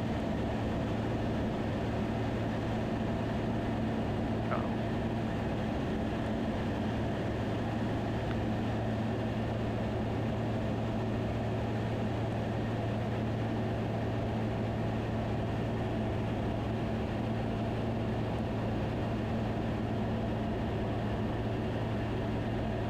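Steady drone of a Van's RV-10's engine at low power while taxiing, heard through the cockpit audio, with a low hum. A faint brief chirp about four and a half seconds in.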